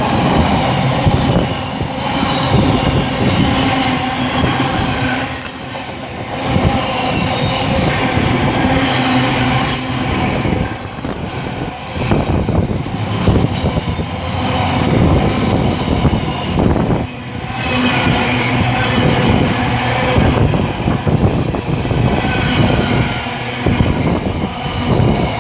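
Freightliner Class 70 diesel locomotive's GE PowerHaul V16 engine running as it hauls a freight train past, followed by the wagons rolling by with wheel clatter over the rail joints and some wheel squeal.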